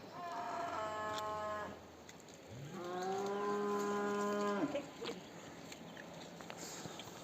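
Cattle mooing: two calls, the first higher-pitched and about a second and a half long, the second lower and about two seconds long.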